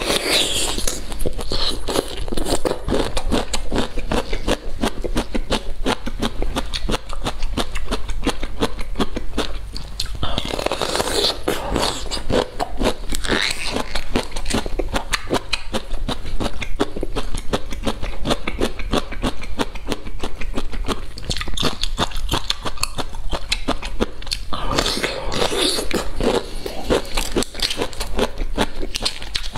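Close-up crunching and chewing of boiled bamboo shoots, with fibrous tearing as the shoots are peeled apart by hand: a dense run of crackles with a few louder stretches.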